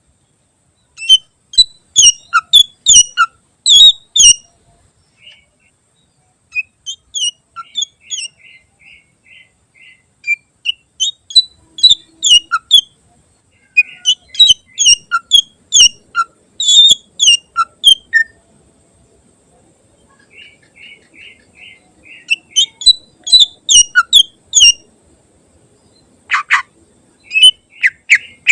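Greater green leafbird (cucak ijo) singing a rich, varied song. Fast bursts of sharp, high chirping notes alternate with short pauses, and twice the bird slips into a quick, even trill.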